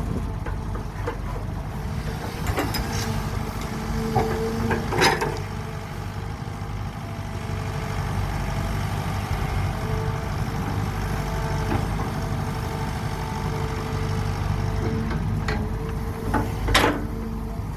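Heavy construction machine's diesel engine running steadily, with a few sharp knocks about five seconds in and again near the end.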